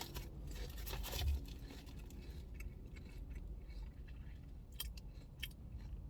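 Crunching and chewing potato chips, a scatter of short crisp crackles, over a steady low hum.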